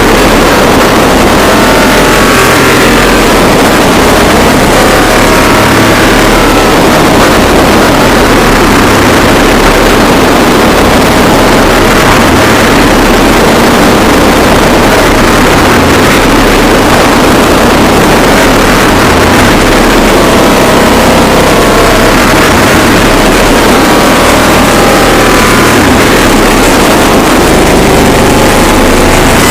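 Harsh noise music: a loud, unbroken wall of dense noise, rumbling low and hissing high, with no pauses or beat.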